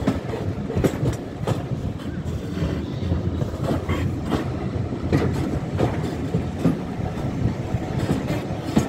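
Railway carriages running at speed on a heritage steam line: a steady rumble of wheels on track with irregular clicks as the wheels cross rail joints, heard from an open carriage window.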